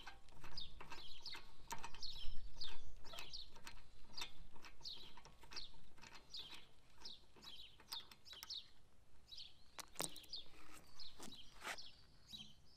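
A songbird calling over and over in short falling chirps, about two a second, thinning out after about nine seconds. Two sharp clicks or knocks come near the end.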